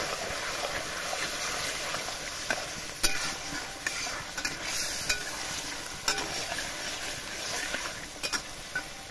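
Mutton and spinach curry sizzling and bubbling in a kadhai while a ladle stirs it, with several sharp knocks of the ladle against the pan.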